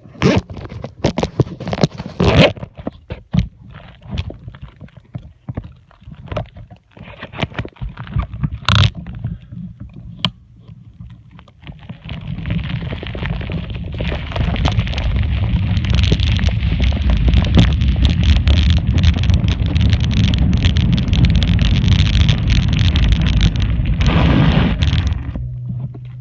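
Mountain bike on a trail: scattered knocks and rattles for the first dozen seconds, then a steady, loud rush of wind noise and tyre rumble as the bike rolls at speed, easing off near the end.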